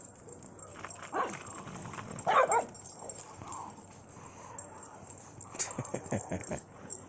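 Dog barking in short separate barks, the sharpest about two and a half seconds in, with a few more near the end; alert barking at something unseen.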